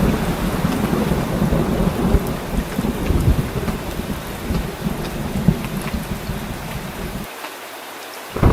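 Heavy rain falling with a steady low rumble of thunder. About a second from the end, the rumble cuts out briefly, leaving only the hiss of rain, then returns abruptly.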